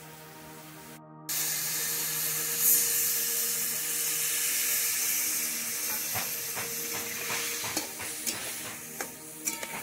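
Cubed kohlrabi and potato sizzling in hot oil in a metal wok, the sizzle starting suddenly about a second in. From about six seconds in, a metal spatula stirs them, scraping and clicking against the pan. Faint background music runs underneath.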